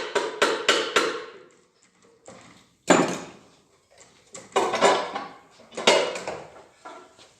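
Quick hammer taps, about four a second, on a G4NA engine cover near its locating dowels to break the cover loose; they stop about a second in. Then a few single metallic clanks and knocks as the loosened parts are handled.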